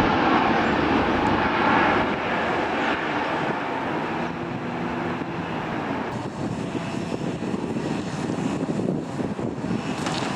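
Jet airliner's engines passing close by, a wide rumble that is loudest at first and fades away over the following seconds.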